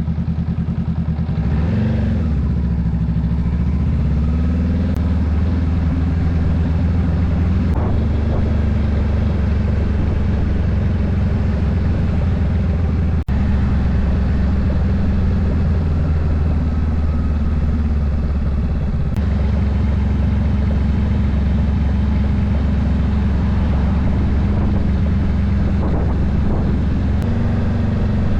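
Honda Rebel 500's parallel-twin engine running steadily under way, heard from the handlebars, with its pitch dipping and rising again about two seconds in and a few more times as the throttle and gears change.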